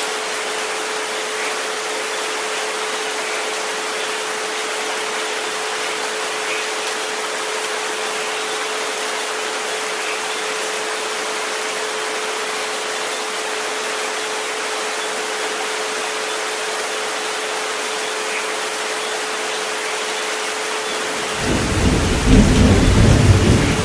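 Steady rain hiss with a constant pure tone held underneath, at about 432 Hz. Near the end, a rumble of thunder comes in and is the loudest sound.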